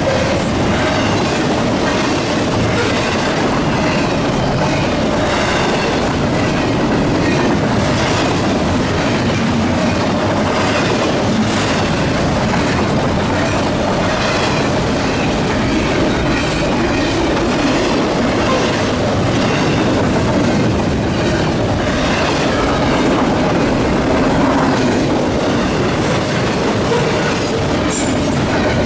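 CSX intermodal freight train rolling past at a steady, loud level, its wheels clicking over the rail joints, with a few brief high wheel squeals near the end.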